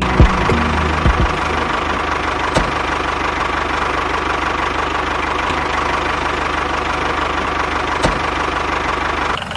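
A small motor running steadily, with a steady whine and a rapid fine pulsing, and a few sharp clicks along the way.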